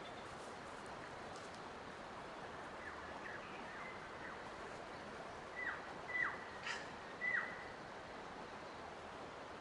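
A bird calling a few times over a steady natural background hiss. Each call holds a short high note, then drops sharply in pitch. The calls are faint at first, and the loudest four come close together about six to seven and a half seconds in.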